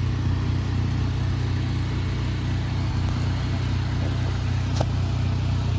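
Pressure washer engine running at a steady speed, with a steady hiss over it.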